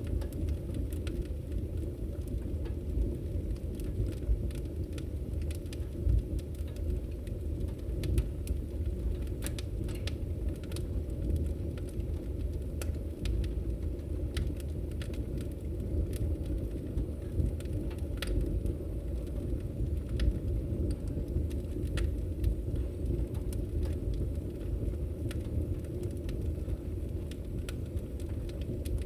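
Campfire crackling, with many sharp irregular pops and snaps over a low steady rumble.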